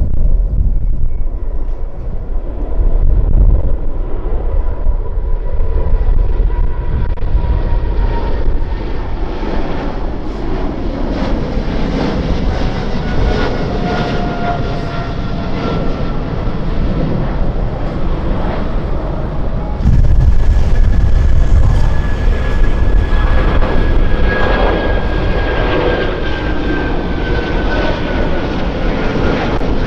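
Jet airliner engines running close by: a deep, steady rumble under high whining tones that slowly fall in pitch. About two-thirds of the way in, the sound jumps louder and a new whine comes in.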